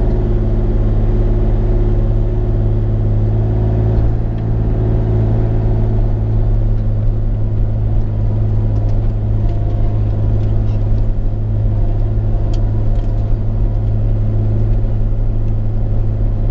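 Bobcat E35 mini excavator's diesel engine running at a steady speed with a deep even hum, with a few light clicks about twelve seconds in.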